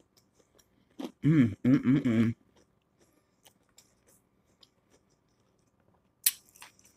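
Close-up mouth sounds of someone chewing a crispy breaded chicken strip, with small scattered clicks. About a second in comes a short two-part hum with a full mouth, and near the end a brief sharp click.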